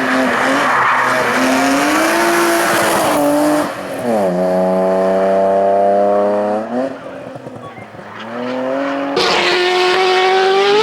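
Racing car engine at full throttle on a hill climb. Its pitch drops about four seconds in, holds steady, then fades. Near the end another loud burst of engine comes in, rising in pitch.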